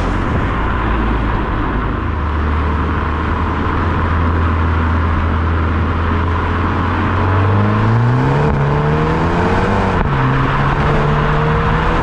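BMW 128ti's turbocharged 2.0-litre four-cylinder engine and stock exhaust cruising at a steady note, then accelerating from about seven seconds in, its pitch rising. The pitch drops at an upshift about ten seconds in, climbs again and falls off near the end.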